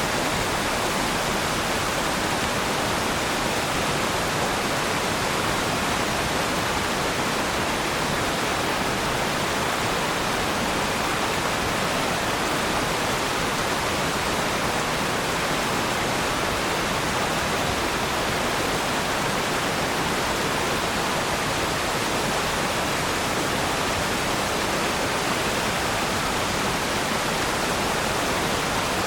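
Waterfall: falling water rushing in a steady, even roar with no breaks or changes.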